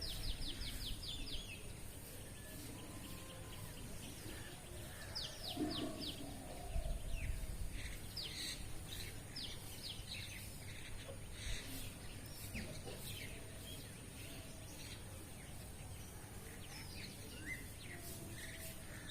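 Small birds calling outdoors: a quick run of repeated chirps right at the start, then scattered short chirps and calls.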